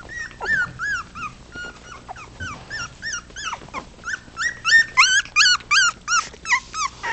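Four-week-old puppies whimpering in a rapid string of short, high cries that rise and fall, about three or four a second, getting louder in the second half.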